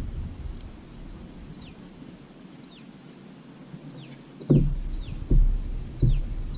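A bird calling with short, high whistled chirps that fall in pitch, repeated about once a second. From about two-thirds of the way in, a few dull low thumps are louder than the calls.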